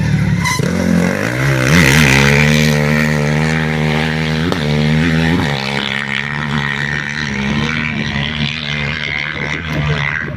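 Rally motorcycle engine running hard as a bike passes, with a pitch shift about two seconds in when it is loudest, then a steady drone.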